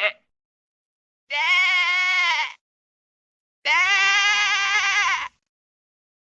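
Two long bleats, each held for over a second with a slightly wavering pitch, separated by a short silence; the end of an earlier bleat is heard at the very start.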